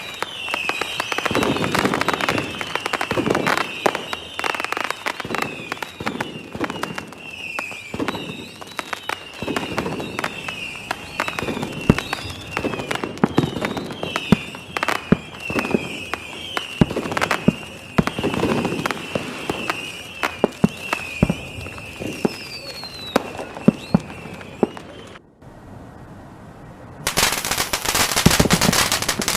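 Fireworks going off, with many sharp pops and deeper booms and a high warbling whistle running above them. After a brief lull near the end, a string of firecrackers starts crackling rapidly.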